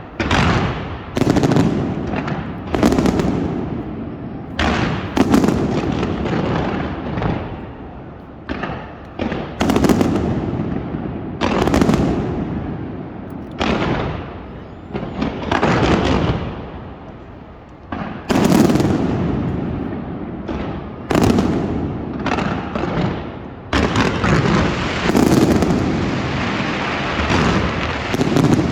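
Aerial fireworks going off in a rapid string of loud bangs, about one to two seconds apart, each bang trailing off as it fades. Near the end the bursts run together into a dense, continuous crackle.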